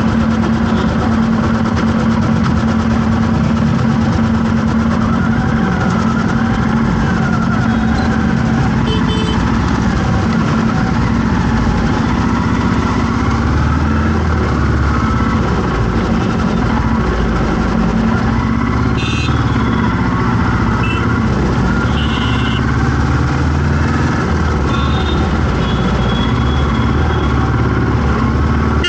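Heavy city road traffic in a jam: vehicle engines running and idling in a steady din, with several short horn toots through it.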